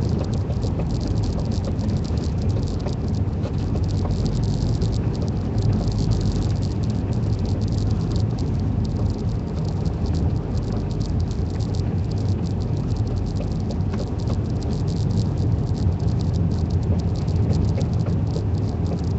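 A vehicle driving slowly on a snowy road with tire chains on, heard from inside the cabin: a steady road rumble with the chains rattling and tapping continuously, as chains do when they are not running smooth on the tires.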